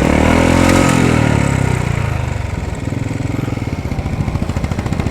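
Royal Enfield Bullet motorcycle's single-cylinder engine running close by: its note climbs in the first second, then falls away as the throttle eases and the sound slowly fades.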